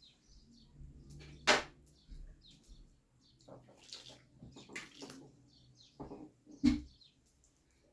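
Handling sounds of hands-on food preparation: two sharp knocks, about a second and a half in and near the end, with light scraping and rustling between them.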